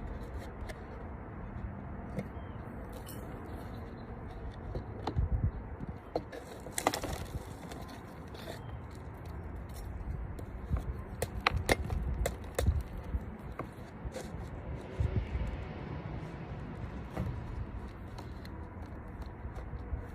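Objects being handled: scattered scrapes, clicks and taps, with a brief louder rustle about seven seconds in, over a low rumble.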